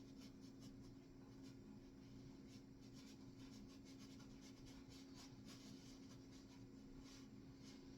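Paintbrush scrubbing over canvas: faint, scratchy strokes in quick irregular succession, over a steady low hum.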